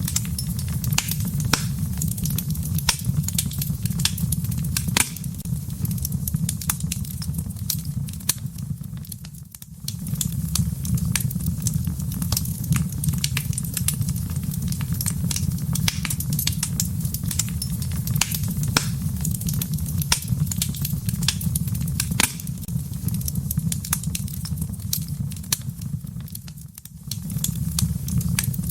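Fire burning in a fireplace, crackling with frequent sharp pops over a steady low rumble. The rumble drops away briefly twice, about a third of the way in and near the end.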